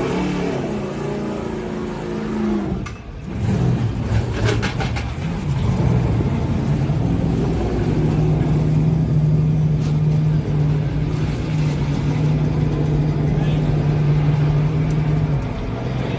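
Race truck engine running. Its pitch shifts over the first few seconds, a few clicks follow, and then it holds one steady note for several seconds before easing off near the end.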